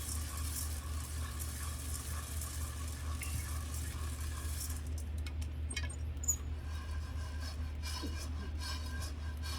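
Food sizzling on a grill with a fine hiss that stops after about five seconds, followed by scattered light clinks of dishes and utensils, over a steady low hum.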